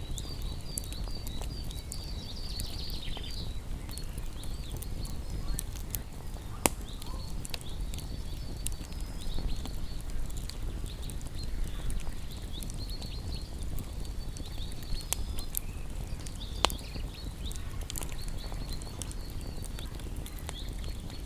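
Wood fire crackling with scattered pops, two sharper snaps about 7 and 17 seconds in, over a low steady rumble, while small birds chirp in quick repeated notes.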